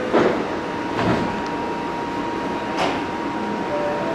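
Electric commuter train at a station platform: a steady high whine over the general rumble, with three short bursts of noise, two close together near the start and one about three seconds in.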